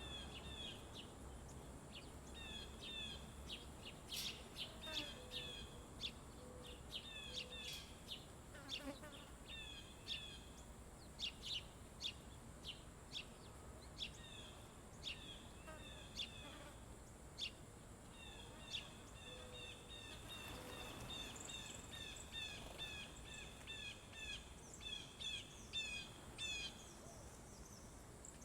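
Small songbirds chirping and calling over and over in short high notes, with a run of quick, evenly repeated notes partway through. A faint, steady high insect drone runs underneath.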